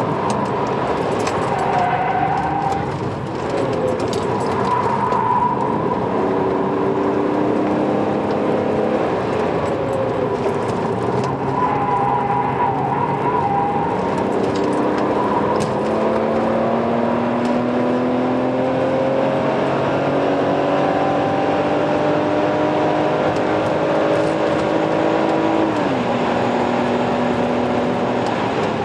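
Car engine heard from inside the cabin, pulling hard on a fast track run: its pitch climbs slowly over long stretches in each gear, with a clear drop at an upshift near the end.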